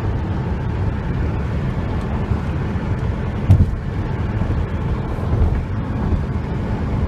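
Steady low road and engine rumble inside a moving car, with a single short thump about three and a half seconds in.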